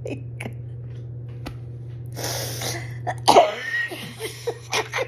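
A woman laughing hard: a long breathy intake, then a sharp loud burst a little past the middle, followed by several short breathy laugh pulses.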